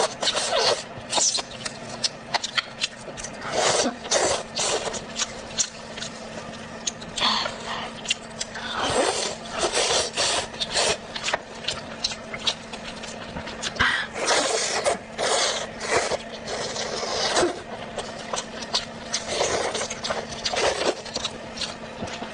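Close-miked eating: irregular bursts of wet chewing, biting and crunching, several a second in places, with a faint steady hum underneath.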